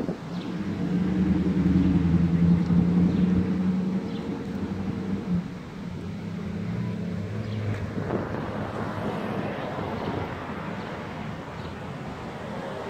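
A nearby motor vehicle's engine running, a steady low hum that swells over the first couple of seconds and then fades away.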